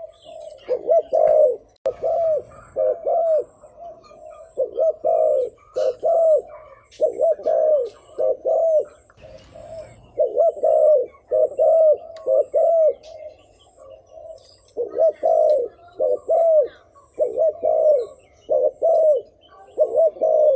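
Spotted dove cooing over and over in short phrases of two or three low coos each, with brief pauses between phrases.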